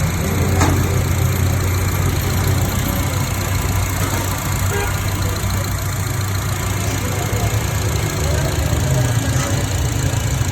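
Honda City's engine idling steadily.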